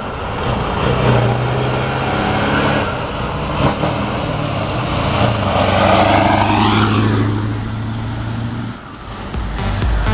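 Scania R560 truck's V8 engine running, its sound swelling to the loudest point about six seconds in and easing off near the end, where dance music comes in.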